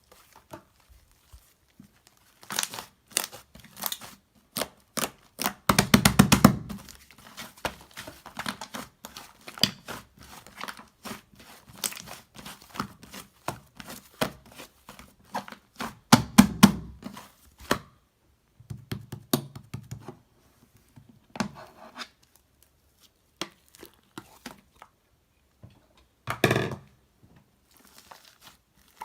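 Close-up crinkling, crackling and tearing sounds of something being handled by hand, a string of small clicks with louder, denser bursts about six, sixteen and twenty-six seconds in.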